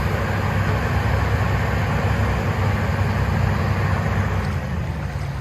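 Diesel engine of a Hitachi Zaxis 210 excavator running steadily with a low, even rumble.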